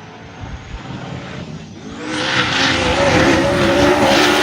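Drag-racing S10 pickup running at full throttle down the strip, its engine growing much louder about two seconds in and staying loud.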